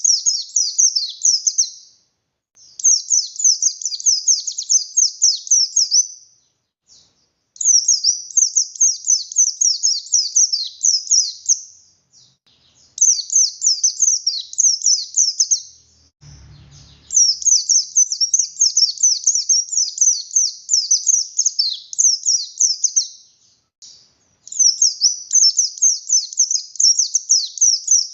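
Pleci buxtoni white-eye singing: long phrases of rapid, high twittering notes that slur downward, each phrase lasting a few seconds and repeating after short pauses. A brief low thump comes about 16 seconds in.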